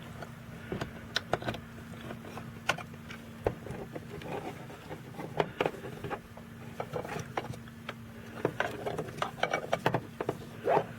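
Scattered light plastic clicks and taps as the door panel's wiring connectors are handled and pushed into their slots. A faint steady hum runs underneath and stops about two-thirds of the way through.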